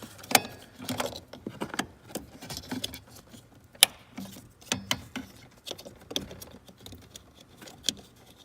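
Scattered metallic clicks and clinks of hand tools on a car door's mounting bolts as the door is fastened on, with one sharp knock about four seconds in.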